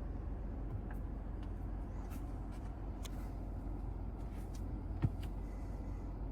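Steady low cabin rumble of a Mazda CX-5 on the move, its naturally aspirated 2.5 e-Skyactiv G engine and tyres heard from inside, with a few faint clicks and a single thump about five seconds in.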